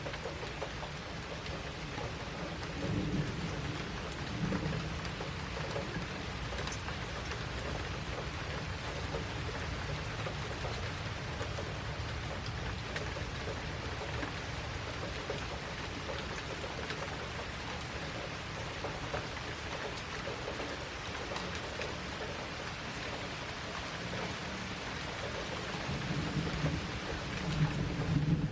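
Steady rain falling, with low rolls of thunder: one a few seconds in and another building near the end.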